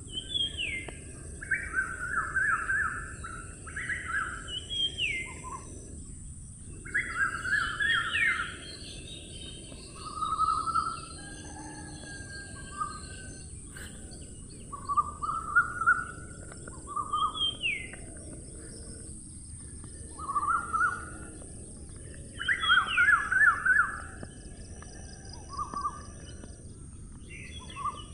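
Songbirds singing short phrases of chirps and quick downward-slurred notes every couple of seconds, over a steady low background rumble and a steady high hiss.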